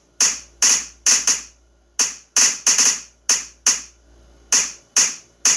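A series of about a dozen sharp hits or smacks at an uneven pace, each dying away within a fraction of a second.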